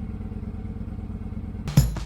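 Motorcycle engine idling with a steady low rumble. Loud music with heavy drums cuts in near the end.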